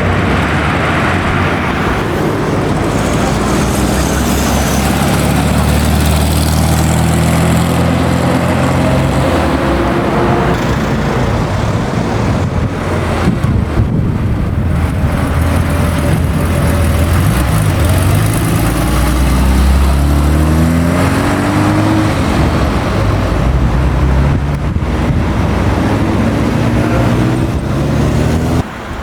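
Classic racing cars' engines running loud and accelerating past, the pitch climbing in two long runs.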